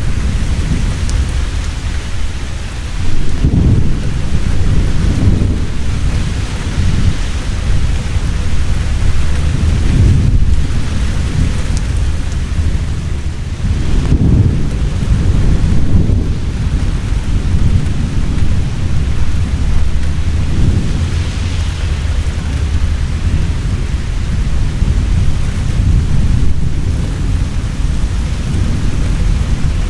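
Heavy rain falling steadily, with deep rolls of thunder rumbling and swelling every few seconds, the strongest about three seconds in and again around the middle.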